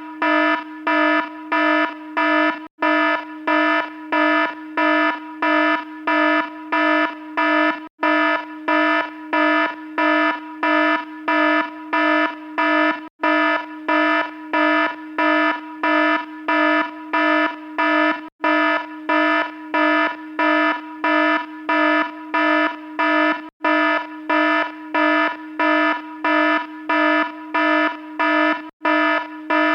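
Alarm sounding: a harsh, buzzing tone pulsing about one and a half times a second, with a brief break roughly every five seconds.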